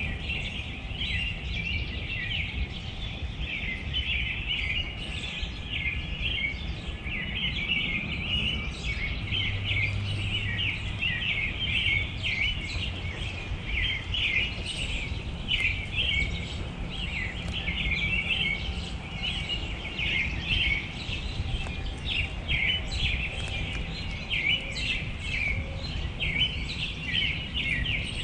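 Many small songbirds chirping continuously over one another, a dense chatter of short high calls, with a steady low rumble of outdoor background noise beneath.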